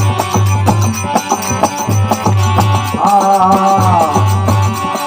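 Instrumental passage of a folk bhajan: a steady drum rhythm with sharp manjira cymbal strokes, and a wavering melody line with vibrato coming in about three seconds in and gliding down near the end.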